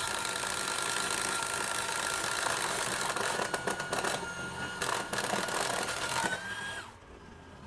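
DCPL04-8Z cordless impact driver running at its maximum setting, hammering rapidly and steadily as it drives a fastener into wood. The motor's whine rises briefly and it stops about seven seconds in.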